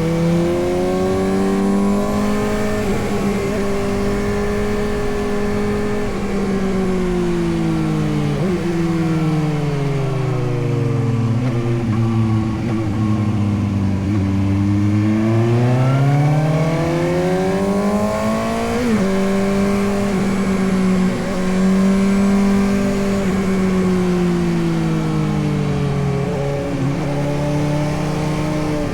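Suzuki GSX-S750's inline-four engine under way as the motorcycle is ridden. It holds a steady note, drops to a low drone about a third of the way in as the throttle eases off, then climbs back up. Past the middle the note jumps abruptly once, then holds steady again, over a haze of riding noise.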